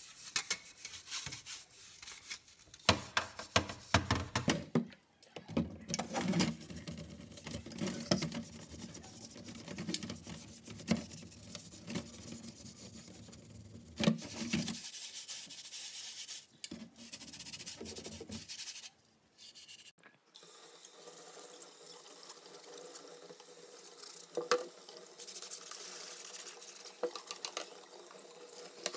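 A scrub pad rubbing and scratching over the stainless-steel mesh of a double honey strainer in a stainless-steel sink, with quick strokes and metal knocks, to scrub off propolis. In the last third a tap runs, water pouring steadily over the strainer.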